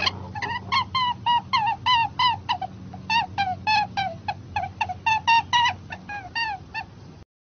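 A rabbit squeaking: a fast run of short, high squeaks, about four a second, with a brief break about three seconds in. They stop shortly before the end.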